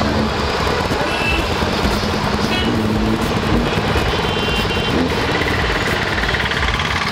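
KTM 390 single-cylinder motorcycle being ridden in traffic: steady engine note under heavy wind and road noise, with a few short high-pitched beeps.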